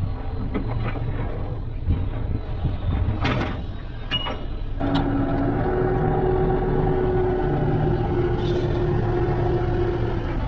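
Mechanical noise: scattered clicks and knocks with a short hiss, then from about five seconds in a steady machine hum.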